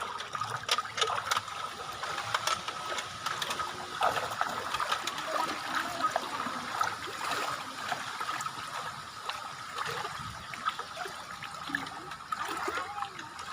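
Shallow river water trickling and splashing, with many small splashes and clicks, over a steady faint high tone.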